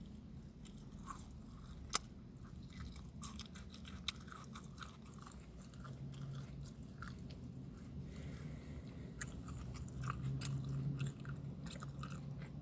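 A person chewing and biting food close to the microphone, with many short crunching and clicking mouth sounds.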